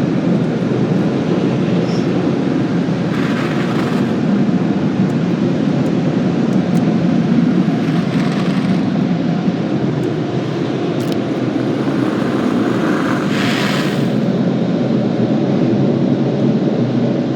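Loud, steady roar of tunnel car wash machinery heard from inside the car, with two brief hissing bursts, about three seconds in and again near the end.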